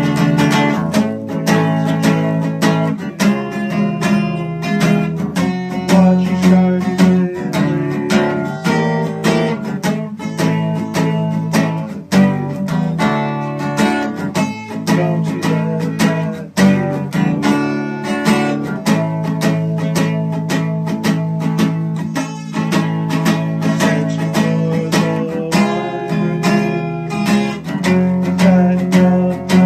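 Acoustic guitar playing without singing: picked and strummed notes over a steady low bass line.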